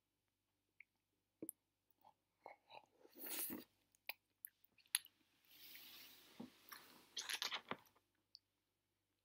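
Close mouth sounds of a person eating caviar spread squeezed from a tube: wet lip smacks, chewing and swallowing in short irregular bursts, with a breathy rush about halfway through.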